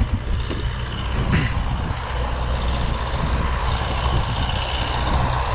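UTB Universal 650 tractor's diesel engine running steadily, with a faint steady whine above the engine drone.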